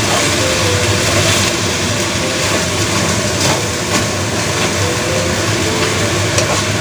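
Eggplant and minced meat frying in a steel wok: a steady sizzle, with a wooden spatula scraping and knocking against the pan as it stirs, over a low steady hum.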